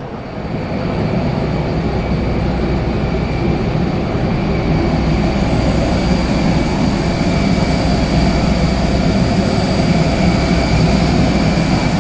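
Jet airliner on the ground: a steady, loud rumble with a high whine held on top. It swells up in the first second and then holds.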